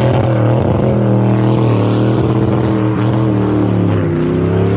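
A car engine held at high revs for a burnout, its note steady with a brief dip about four seconds in.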